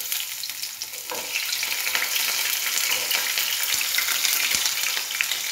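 Sliced garlic and ginger sizzling and crackling in hot sesame oil with fenugreek seeds, with many small pops. The sound grows a little louder about a second in.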